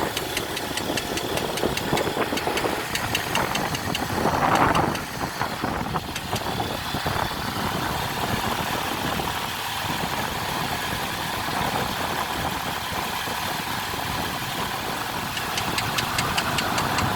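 Infiniti QX80's 5.6-litre VK56DE V8 idling cold with a rapid, even ticking knock, a knock that is present on a cold engine. A brief louder swell comes about four and a half seconds in.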